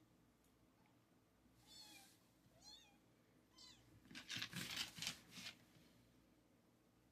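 Three faint, high kitten mews, each bending in pitch, followed about four seconds in by a louder rustling noise lasting just over a second.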